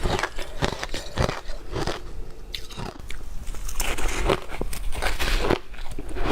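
A person biting and chewing ice close to the microphone: repeated crunches and cracks at an irregular pace, packed tighter in the second half.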